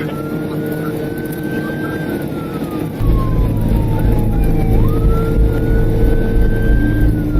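Police car siren on a wail cycle, each sweep rising quickly then falling slowly, about every five seconds, heard from the pursuing cruiser at high speed. About three seconds in, a loud low rumble comes up under it.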